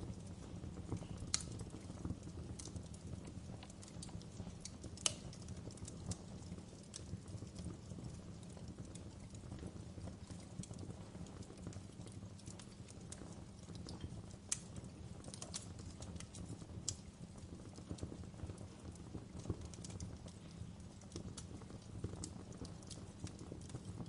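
Wood fire burning in a fireplace: irregular sharp crackles and a few louder pops over a steady low rumble of the flames.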